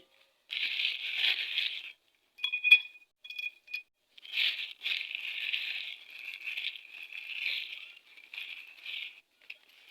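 Metal engine parts being handled and fitted on a motorcycle cylinder head as the valve springs go on: bursts of scraping and rattling, with a few short ringing metal clinks about two and a half to four seconds in.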